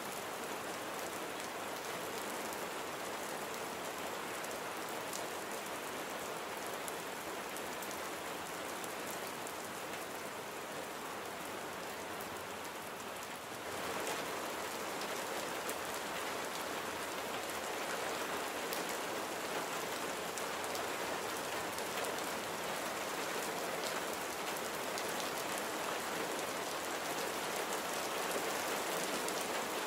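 Steady rain falling on a surface: a dense, even hiss of rain with scattered individual drop ticks, growing a little louder about halfway through.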